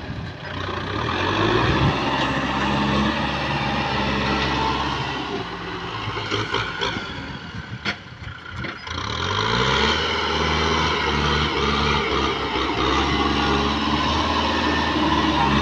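Kubota M6040 tractor's diesel engine running steadily. It falls off a little around seven to eight seconds in, then climbs in pitch as it revs back up just after nine seconds and holds steady again.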